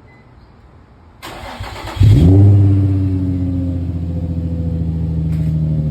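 Nissan 350Z's 3.5-litre V6 cranked by the starter and catching about two seconds in, flaring up loudly and then settling into a steady cold-start idle through a new Invidia N1 cat-back exhaust.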